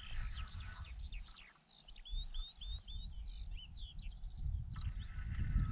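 Small songbirds singing and chirping, with a quick run of four rising notes about two seconds in, over a steady low rumble.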